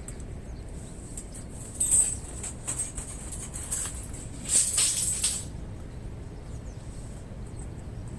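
Wood campfire crackling: scattered sharp pops, with two louder bursts of crackle about two seconds and four and a half seconds in.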